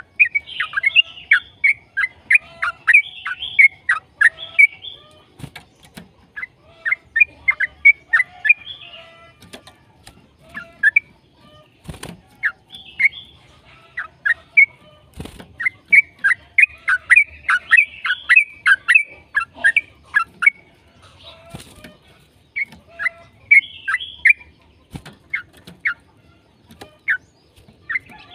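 Yellow-vented bulbul (trucukan) singing a long, fast chattering song of short, sharp notes in runs separated by brief pauses. A few sharp clicks sound in between.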